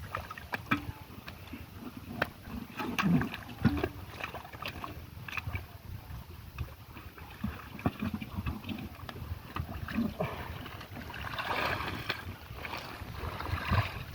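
Water splashing and sloshing as a fisherman gropes by hand in muddy river water for catfish. Scattered knocks and low thumps run through it, with a denser splashing stretch near the end.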